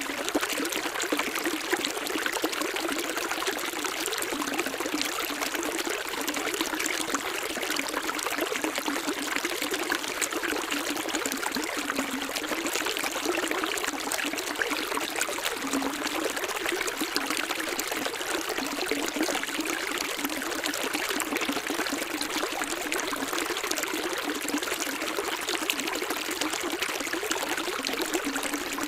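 Running water flowing steadily, an even trickling rush without breaks.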